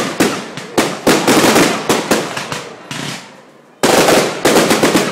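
Fireworks going off in rapid volleys of sharp bangs, each one echoing briefly. There is a short lull about three seconds in, then another loud volley of bangs.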